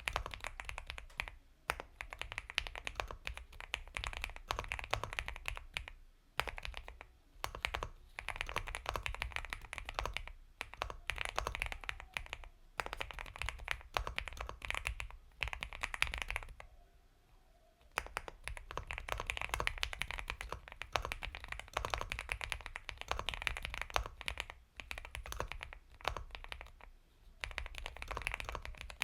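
Continuous typing on an Epomaker x Feker Galaxy 80 mechanical keyboard with Gateron Milky Yellow Pro linear switches: rapid soft keystroke clicks in runs of a few seconds, with short pauses, the longest about halfway through.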